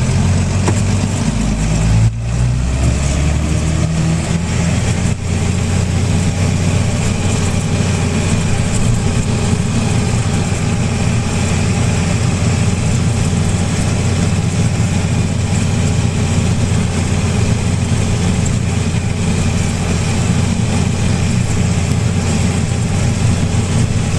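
Farm tractor engine running, its pitch shifting and rising over the first few seconds as the tractor turns and heads back across the field, then settling into a steady drone.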